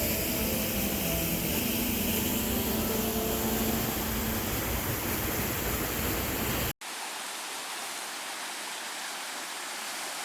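Background music with held notes over a steady rush of flowing water; about two-thirds of the way through the music cuts off abruptly, leaving only the steady rush of the creek's water at a mostly frozen waterfall.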